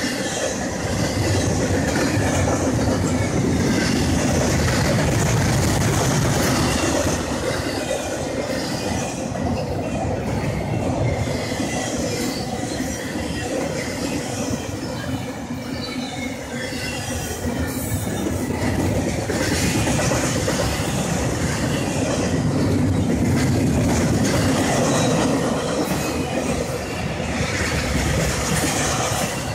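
Intermodal freight train's double-stack well cars rolling past at speed: a continuous rumble and rattle of steel wheels on rail that swells and eases slightly as the cars go by.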